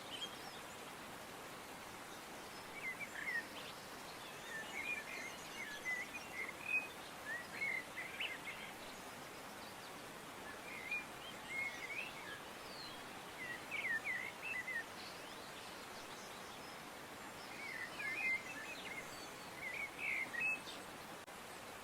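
Small birds chirping in short clusters of quick high chirps every couple of seconds, over a steady soft background hiss.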